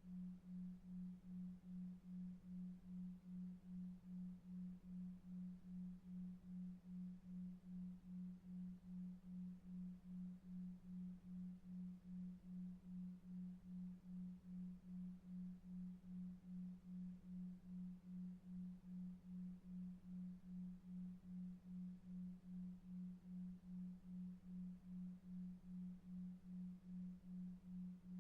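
A soft low sine tone pulsing on and off about two and a half times a second, a 2.5 Hz delta-wave sleep tone, over faint brown noise.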